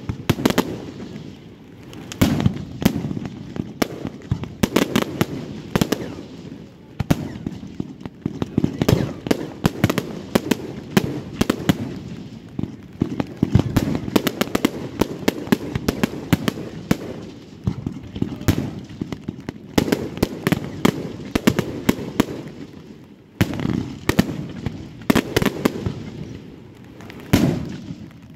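Fireworks going off: a dense, irregular run of sharp bangs and crackles, several a second, over a rumbling echo. There is a brief lull about 23 seconds in before another volley.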